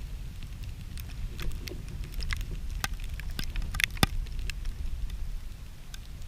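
Small wood campfire crackling with scattered sharp pops, over a steady low rumble of wind on the microphone.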